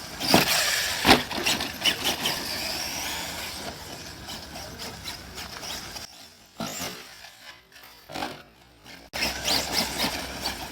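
Kyosho Mad Crusher VE brushless electric RC monster truck running hard on a 4S LiPo: motor whine rising and falling with the throttle over a gritty rush of tyres on rough ground, with two sharp knocks in the first second or so. The sound mostly drops away for a few seconds past the middle and comes back suddenly near the end.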